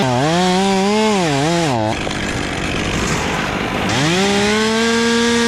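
Chainsaw at full throttle, its pitch dipping twice about a second in as it bogs under load in the cut. The engine note drops out near two seconds, leaving a rough noisy stretch, then revs back up near four seconds and holds.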